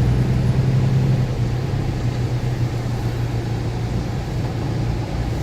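Semi truck's diesel engine running steadily under way, heard inside the cab as a constant low hum with road noise.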